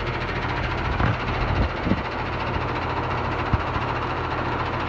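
Amana 4-ton central air conditioner's outdoor condenser unit running in cool mode: a steady compressor hum under the rushing of the condenser fan, with a few brief knocks.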